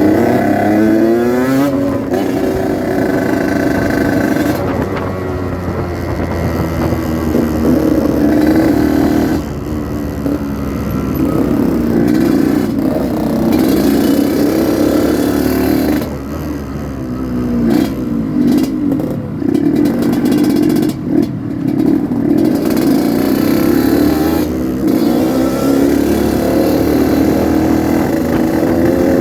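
Yamaha RX-King 135cc two-stroke single-cylinder motorcycle engine under way, its pitch repeatedly climbing as it revs and dropping back, with a few short lulls in between.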